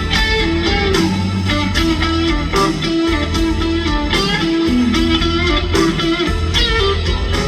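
Live rock band playing a slow, bluesy instrumental passage led by electric guitar, with notes bending in pitch over bass and drums.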